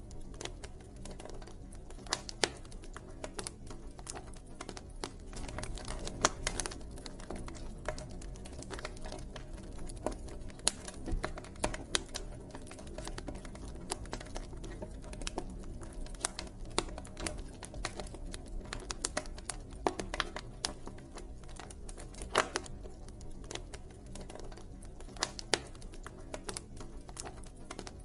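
Campfire crackling: burning wood gives irregular sharp pops and snaps, a few much louder than the rest, over a low steady rumble of the flames.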